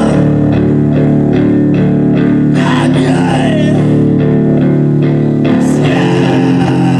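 Live rock band playing loud, held chords on electric guitar over bass guitar, with a few gliding pitches in the middle.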